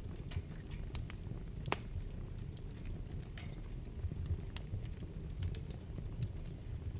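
Wood fire burning in a fireplace: a low steady rumble of flames with scattered sharp crackles and pops, the loudest about two seconds in.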